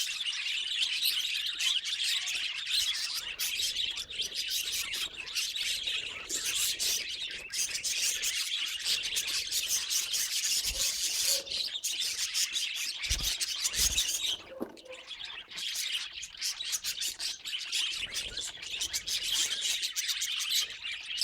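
Budgerigars chirping and chattering continuously in quick, high twitters, thinning out briefly about fifteen seconds in. A couple of low thumps about thirteen seconds in.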